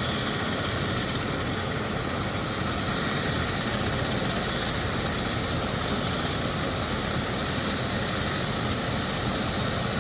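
Medical helicopter running on a hospital rooftop helipad, a steady, even engine and rotor noise that does not change.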